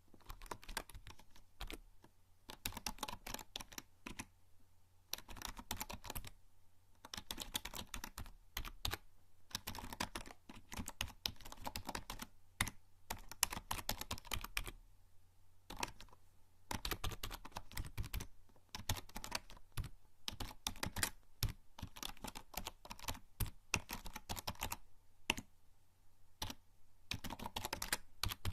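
Typing on a membrane computer keyboard: bursts of quick key presses broken by short pauses.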